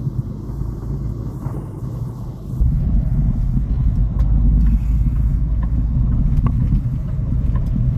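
Semi truck's diesel engine and drivetrain rumbling steadily, growing louder about two and a half seconds in, with a few faint clicks.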